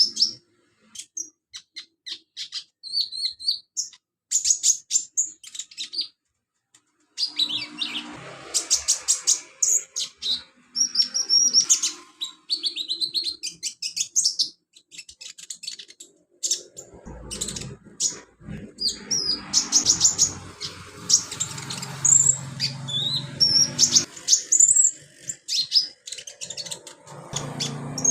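Brown-throated sunbird (konin) singing a fast, high-pitched twittering song in bursts of rapid chirps and trills, with short pauses between phrases.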